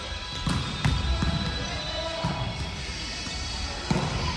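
Volleyball play in a gym: a quick run of ball thumps about half a second in, and another thump near the end.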